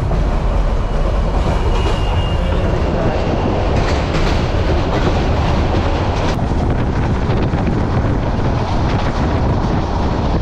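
Passenger train moving along the tracks, heard from on board: a loud, steady noise of wheels and carriage on the rails.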